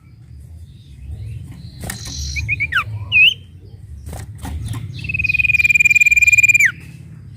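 Sirtu bird singing: a few short whistled notes about two seconds in, then one long, steady high whistle from about five seconds in that drops in pitch as it ends. A low hum runs underneath.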